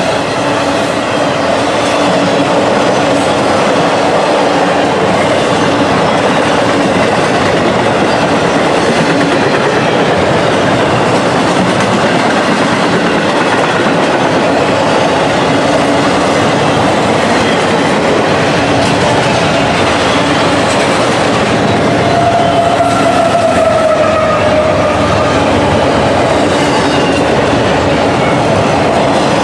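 Train rolling past with a loud, steady clatter of wheels on rail. A brief high squealing tone, falling slightly in pitch, comes about three quarters of the way through.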